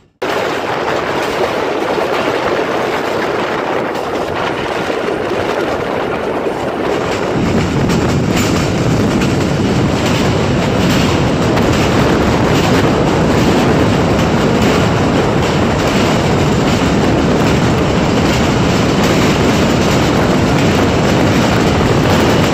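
Karachi Circular Railway passenger train running, heard from aboard: a steady rumble of wheels on the track with occasional clicks. It grows louder and deeper about seven seconds in.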